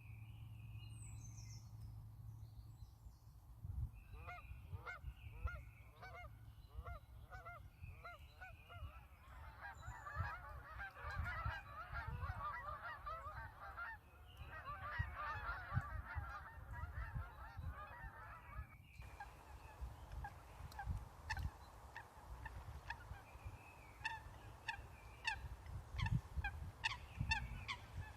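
Geese honking at a pond: repeated calls about twice a second, then a dense chorus of overlapping honks, then scattered calls. A low wind rumble sits under the calls.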